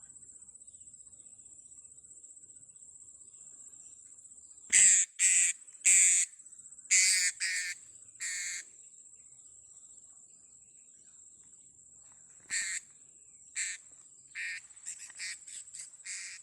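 Sharp high-pitched calls of blue-crowned hanging parrots (serindit). A run of five loud notes comes about five seconds in, then scattered single notes, and a quick series of calls near the end. All of it sits over a steady high insect whine.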